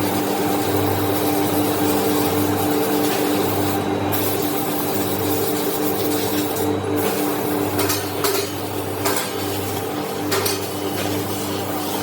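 Workshop machinery running with a steady hum under a scraping, rasping noise, with a few sharp taps over the last few seconds.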